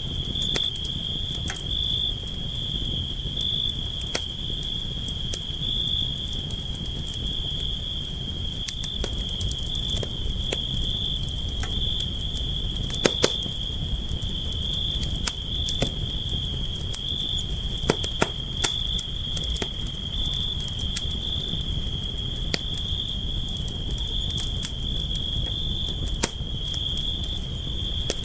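Campfire burning, with scattered sharp crackles and pops over a steady low rumble of flame, and crickets chirring on one continuous high note behind it.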